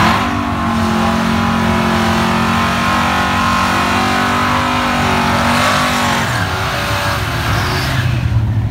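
Two drag cars, a Cadillac sedan and an early Ford Mustang, doing burnouts: their engines are held at high, steady revs while the rear tyres spin. About six seconds in, the revs drop to a lower, steady note as the cars roll forward out of the burnout.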